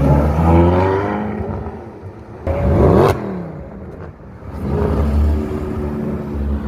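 Sports car engines revving and accelerating, with one car passing loudly about two and a half seconds in, its pitch dropping as it goes by, and another engine building up near the end.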